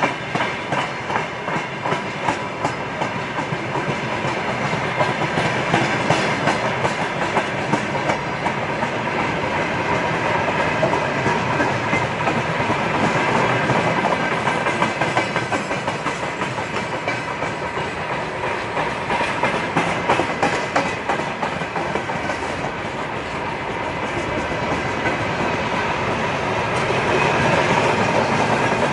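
Freight train wagons, mostly empty container flatcars, rolling past, their wheels clacking over the rail joints over a steady rumble, getting a little louder near the end.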